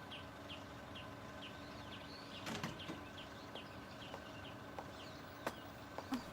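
Small birds chirping in a steady series of short falling chirps, about two a second, with a few soft clicks around the middle and near the end.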